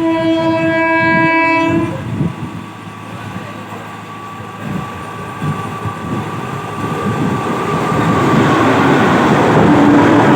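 A fast train's horn sounds one long note for about two seconds. Then comes the rumble of the train, growing louder as it approaches, with a second short horn blast near the end.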